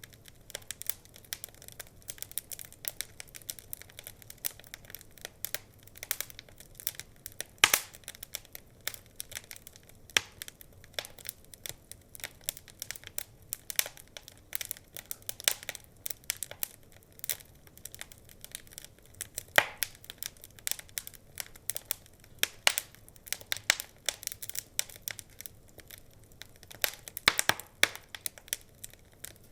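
Wood fire crackling: a steady stream of small irregular pops and snaps, with a few louder pops standing out, about 8 and 20 seconds in and near the end.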